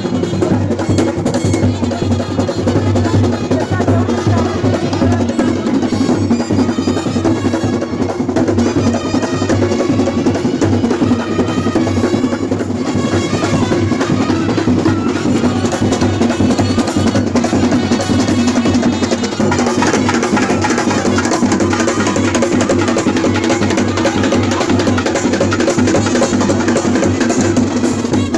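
Loud, continuous drum-led music, many drums played together in a steady rhythm with no break.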